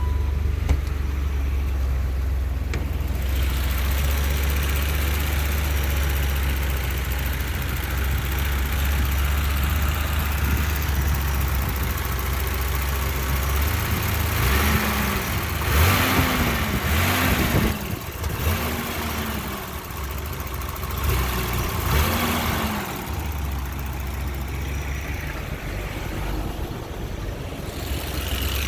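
1987 BMW M6's straight-six engine idling steadily, then revved about five times around the middle, each rev rising and falling back to idle.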